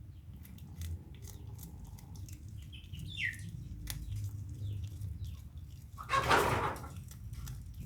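A small bird caught by a mongoose: scattered clicks and rustling, one short falling chirp about three seconds in, then a loud harsh burst of noise about six seconds in.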